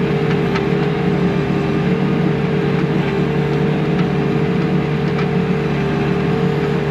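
Bobcat T630 compact track loader's diesel engine running steadily under working load, with a constant high hum over the engine note, while the bucket's cutting edge scrapes through the ground. A few faint ticks scattered through.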